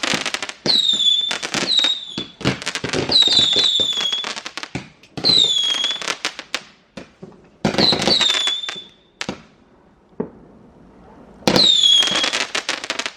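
Fireworks going off in rapid volleys: crackling bangs mixed with many short falling whistles. A lull of about two seconds comes near the end before another loud burst.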